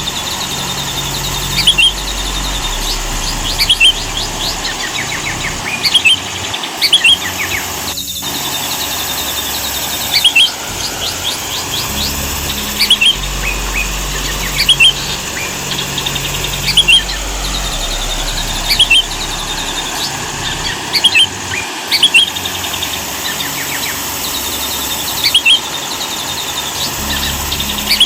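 Sooty-headed bulbul singing short bubbly phrases that come again about every two seconds, over a steady hiss.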